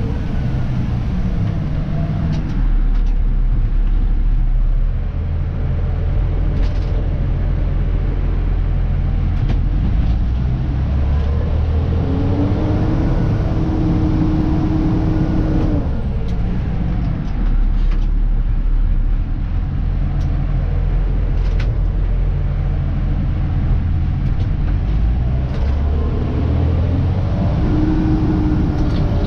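Dennis Elite 2 refuse truck's diesel engine running while the truck drives, heard from inside the cab, its pitch changing in steps. There are scattered short clicks and knocks, and midway a whine rises, holds for a few seconds and falls away, with a shorter whine near the end.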